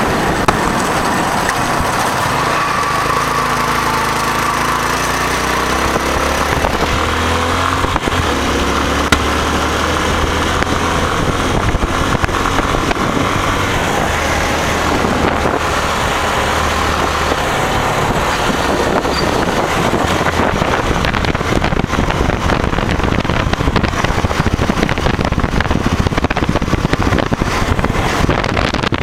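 Motorcycle, a Hero Honda Karizma, on the move with its engine running under a loud rush of wind and road noise. The engine note rises and falls in the first several seconds, then holds steady.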